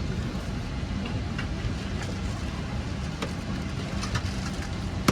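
Steady low hum inside a Boeing 777-300 airliner cabin, with a few faint clicks.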